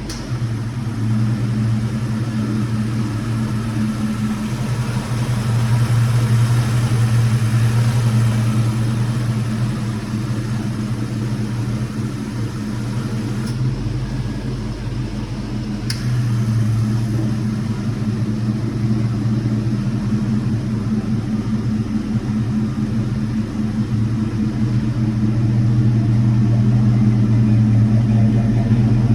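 The 1985 Chevrolet Silverado's 305 cubic-inch V8 running with a steady low drone. Two brief clicks come about halfway through.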